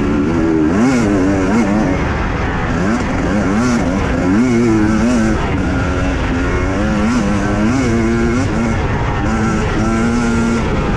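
Husqvarna TE 250i two-stroke enduro motorcycle engine revving up and down in quick swells as the throttle is worked on and off over rough ground.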